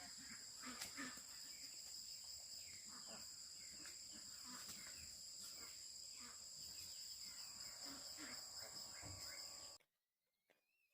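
Faint outdoor insect chorus: a steady high-pitched chirring with a few soft ticks mixed in, cutting off abruptly near the end.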